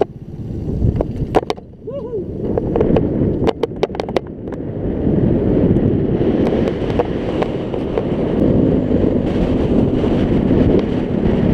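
Scooter engine running with wind buffeting the microphone while riding; the wind noise grows louder and steadier about five seconds in. A few sharp clicks sound in the first few seconds.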